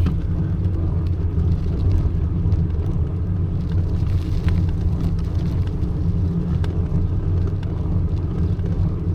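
Steady low rumble of a bicycle riding over a rough, potholed road, road vibration and air noise carried into a bike-mounted action camera, with a few faint rattles.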